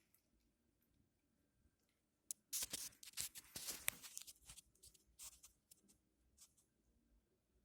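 Worn canopy fabric of a Blade Trigger 10 kite crinkling and squeaking as it is flexed, a dense run of crackles for about four seconds in the middle, then a few scattered ones; the squeak is the sign of the worn, aged cloth.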